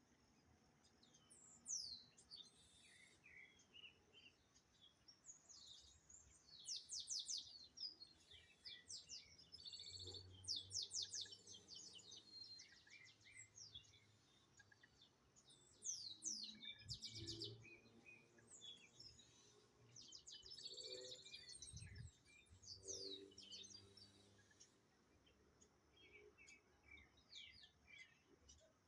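Several small birds chirping and calling, faint overall, with quick high trills and short notes coming in overlapping bouts throughout.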